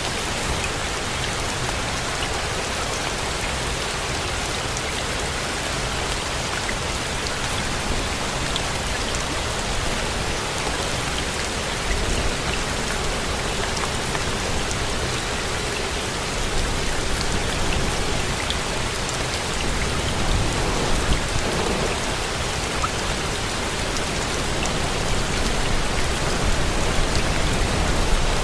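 Steady rain falling, with individual drops ticking through it. A low rumble underneath swells, and the rain grows a little louder in the second half.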